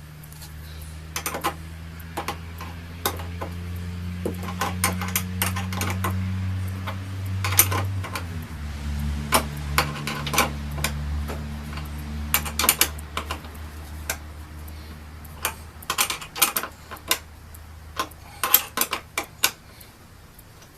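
Clusters of short metallic clicks and ticks, as nuts are tightened onto the hinge's carriage bolts, over a steady low hum that drops in pitch about eight seconds in.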